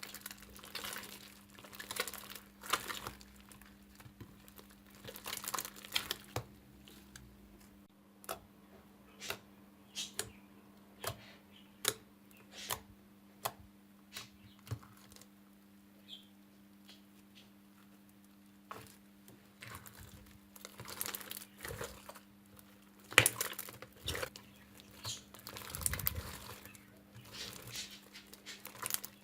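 Hands squeezing and pressing slime, making irregular sticky crackles and sharp little pops, with a quieter stretch partway through. A faint steady low hum runs underneath.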